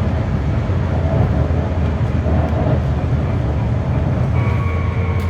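Berlin GT-type tram running, heard from on board: a steady low rumble of wheels on rail, with a whining tone from the drive setting in about four seconds in.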